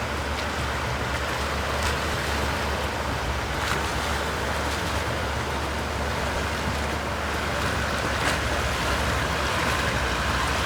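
Four-wheel-drive engine running low and steady under an even rush of water, with a few faint knocks.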